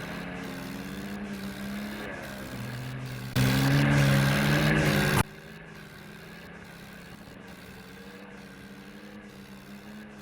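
Swaraj 855 tractor's three-cylinder diesel engine running, its pitch drifting up and down with engine speed. About three and a half seconds in, a much louder stretch of engine noise lasts under two seconds and cuts off suddenly, after which the engine runs on more quietly.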